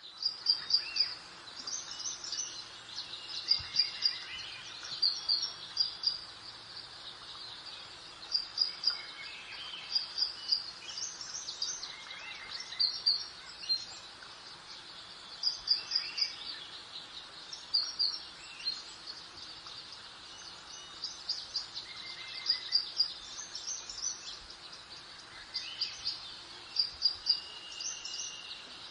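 Small songbirds chirping, repeating short quick runs of high notes every second or two over a soft, steady background hiss.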